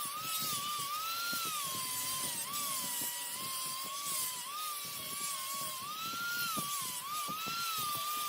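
Wood lathe running under cut. Its high whine wavers up and down in pitch as the load changes, over a hiss and rapid irregular knocks.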